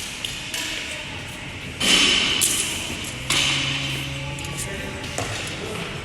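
A few heavy thuds with a ringing tail in a large gym hall, the loudest about two seconds in, over background voices and music.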